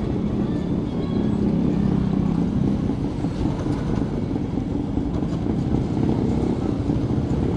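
Suzuki Raider 150 motorcycle engine running while being ridden, with steady wind buffeting on the microphone.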